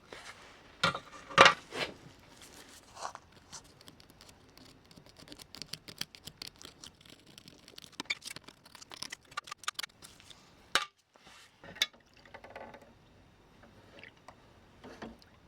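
Close-up hand-work noises on small model-train parts: a busy run of small clicks, taps and scratchy brushing or scraping, with a few sharper knocks about a second and a half in and again near eleven seconds.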